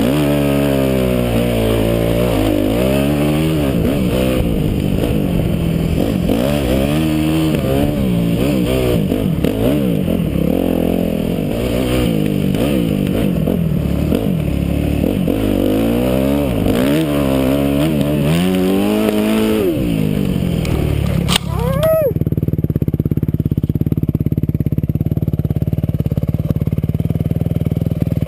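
Yamaha motocross bike's engine revving up and down again and again as it is ridden. A little after twenty seconds it revs up sharply, there is a brief clatter as the bike goes down in the snow, and the engine then runs on at a steady, duller low note while the bike lies on its side.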